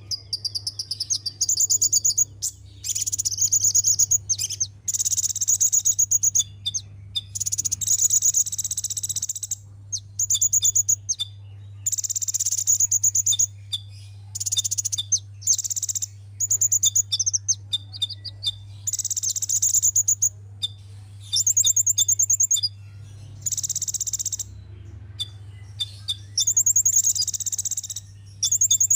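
Sunbird song: rapid, high-pitched trills and chirps in repeated bursts of a second or two with short pauses between, over a steady low hum.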